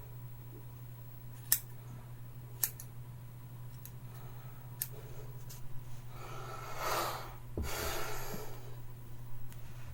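Scissors snipping hair: a few sharp separate snips in the first five seconds, the blades dull enough to need sharpening. About six to eight seconds in come two longer breathy hisses, over a steady low hum.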